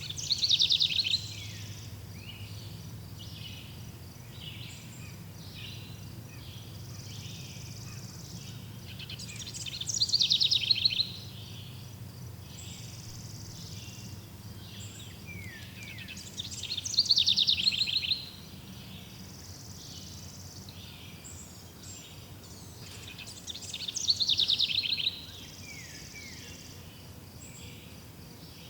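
Forest birdsong: one songbird repeats a loud, fast descending trill about every seven seconds, four times in all, over a steady background of fainter chirping birds.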